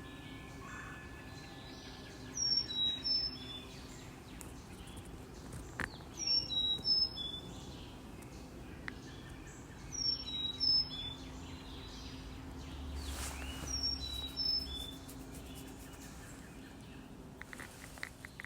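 A songbird repeating the same short song four times, about every four seconds: a few clear, high whistled notes stepping down in pitch, over a steady outdoor background. A soft wind-chime tone rings faintly near the start, and a few soft clicks come near the end.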